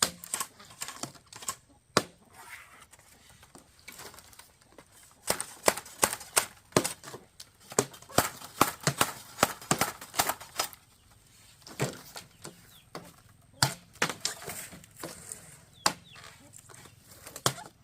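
Irregular sharp knocks and taps of hand tools at work, coming thick and fast through the middle and more sparsely near the start and end.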